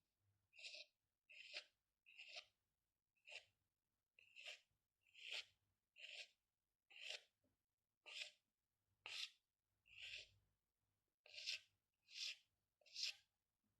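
Faint drawing strokes scratching on paper, one short stroke about every second, about fourteen in all.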